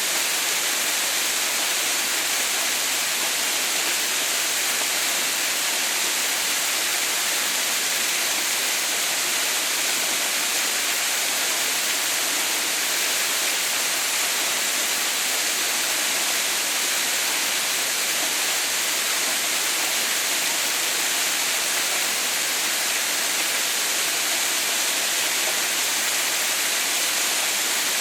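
Waterfall: water falling steadily in an even, unbroken rush, mostly a bright hiss with little low rumble.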